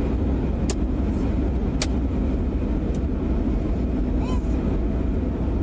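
Steady low rumble of a vehicle travelling on a road, with two short clicks in the first two seconds.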